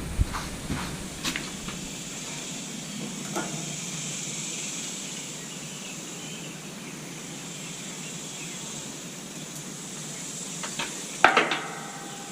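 Steady faint hiss with a few scattered clicks, then a short cluster of louder clicks and knocks about eleven seconds in.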